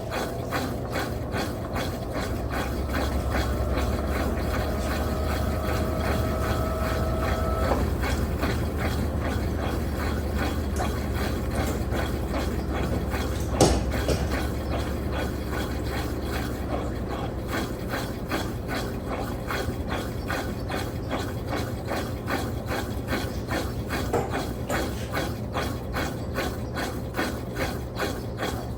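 Electrolux LTP15 top-load washing machine running, with a low motor hum and a rising whine that stops about eight seconds in, rapid even clicking throughout, and a single sharp knock about halfway.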